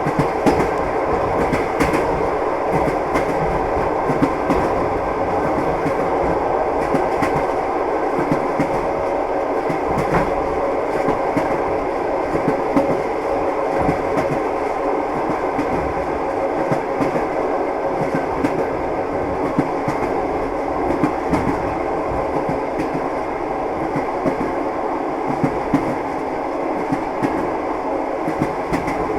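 Train running along the track: a steady rumble with the clickety-clack of wheels over rail joints, heard as frequent, irregular clicks.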